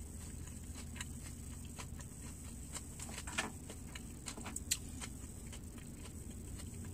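Faint eating sounds of someone chewing fried chicken wings: scattered soft smacks and mouth clicks, a few sharper ones a little past the middle. Under them runs a steady low hum in the car's cabin.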